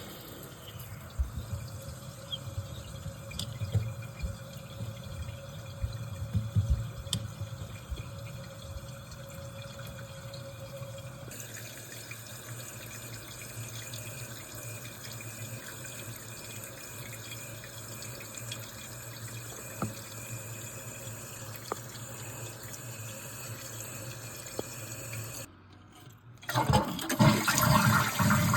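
Toilet running water steadily with a low hiss. Near the end it gives way to a loud rush of water as the toilet is flushed.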